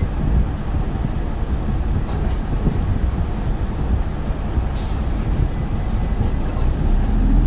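Cabin running sound of an Isuzu Erga 2RG-LV290N3 city bus with its four-cylinder diesel: a steady low rumble, with a brief hiss about five seconds in. Near the end a rising whine sets in as the bus accelerates.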